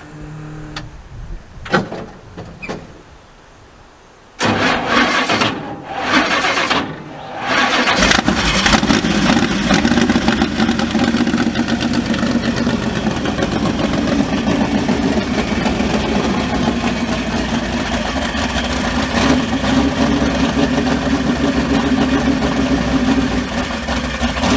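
Big-block Chevy V8 in a mud bog truck being cranked over by the starter: a short burst near the start, then uneven cranking from about four seconds. It catches at about eight seconds and settles into steady running, starting up for the first time after months of sitting.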